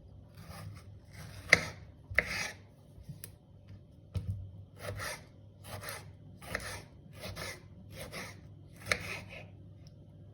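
A knife cutting food on a cutting board: about a dozen slow, rhythmic rasping strokes, roughly one a second, some ending in a sharp knock on the board.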